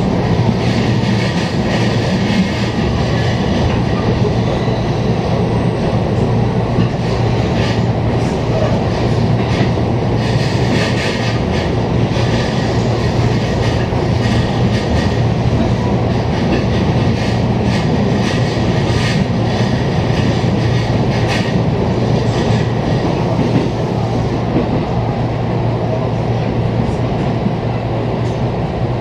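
Inside a JR East electric train car running along the line: a steady rumble of wheels and motors with a low hum, and bursts of wheel clatter over rail joints through the middle.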